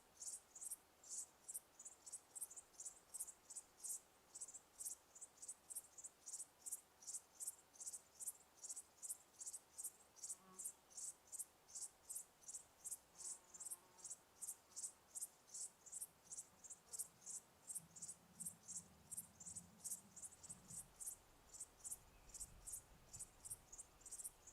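Cricket chirping steadily: short high chirps repeated about three times a second.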